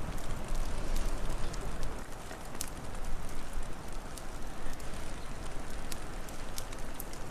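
Wood fire crackling, with irregular sharp pops scattered throughout, over a steady low rush of wind that eases a little about two seconds in.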